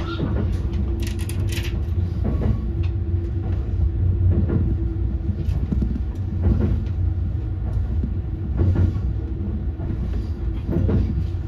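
Inside a Saphir Odoriko limited express, an E261 series electric train, running along the line: a steady low rumble with a constant hum, and a knock from the rails about every two seconds.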